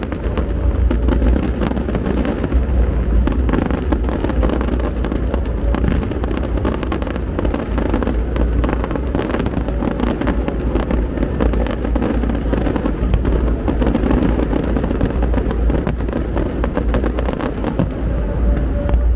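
Fireworks display going off without a break: dense rapid crackling over a steady low rumble of bursts.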